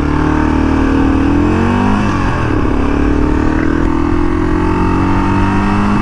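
1982 Honda XL500R's single-cylinder four-stroke engine pulling hard under acceleration. Its pitch climbs, drops about two seconds in at an upshift, then climbs again through the next gear.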